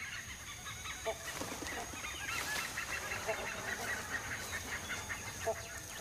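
Birds calling in the forest: a dense chatter of many short chirping calls, with a few lower honking notes about a second in, around three seconds and near the end.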